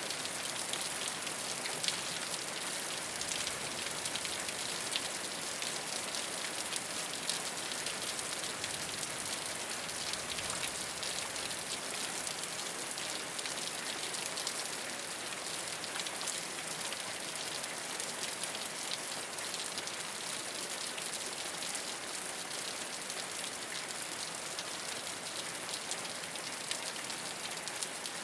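Steady rain falling on a rooftop, a dense even hiss of many small drop impacts with sharper individual drop ticks scattered through it.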